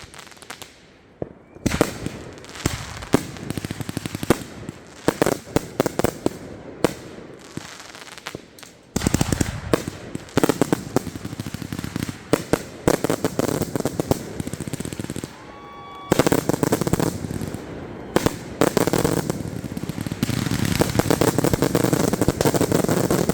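Consumer fireworks going off: a run of sharp bangs and pops, turning into dense crackling about nine seconds in and again, thicker, from about sixteen seconds on.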